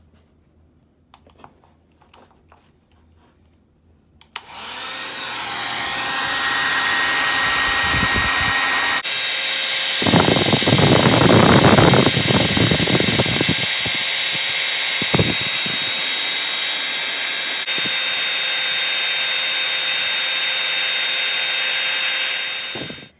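Handheld hair dryer switched on about four seconds in and running steadily with a high whine, blowing hot air into a pan of water droplets; a louder, rougher rush of air comes for a few seconds midway. It cuts off abruptly near the end.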